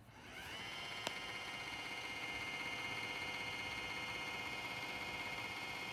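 Roomba j7+ robot vacuum starting up: its motor spins up with a rising whine over about half a second, then runs at a steady high whine. A single click about a second in.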